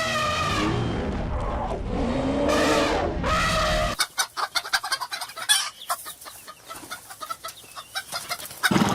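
Rooster crowing twice in the first few seconds, each crow about a second long and falling in pitch at the end. From about four seconds in comes a run of short, sharp clucking clicks from chickens, with a louder call near the end.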